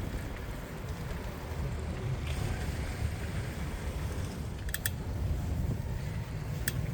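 Wind buffeting the microphone over the low rumble of a bicycle rolling along a city street. A quick pair of sharp clicks comes near the end, with another just before it finishes.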